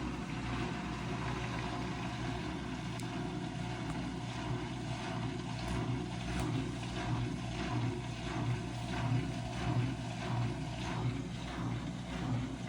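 Blomberg washing machine running on test, a steady mechanical hum and whir that pulses unevenly in its second half.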